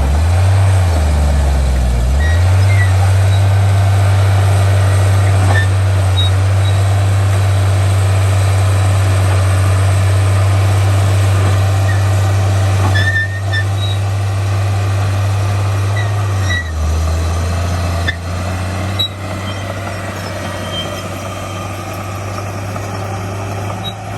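Heavy diesel engine of earthmoving machinery running steadily and loudly. Its pitch dips and recovers briefly near the start and again about two-thirds of the way through, with faint short high squeaks over it.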